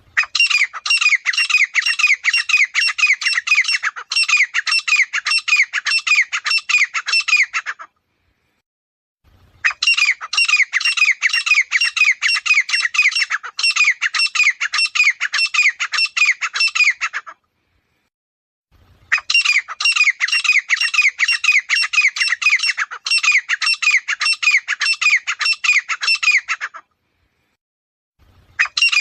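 Grey francolin calling: loud, fast runs of repeated notes in three bouts of about seven to eight seconds each, separated by pauses of about two seconds, with a fourth bout starting at the end.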